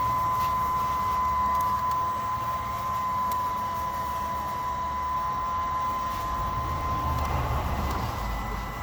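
A small electric motor running with a steady high whine over a rushing hiss; the whine fades out about seven seconds in.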